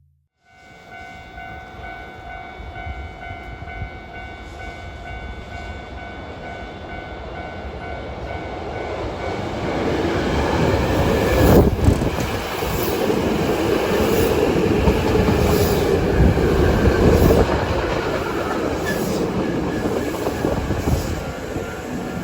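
Hankyu 5300 series electric train pulling into a station. A rumble of wheels on rail builds from about eight seconds in, is loudest in the middle with a single sharp knock, and eases slightly toward the end as the train slows.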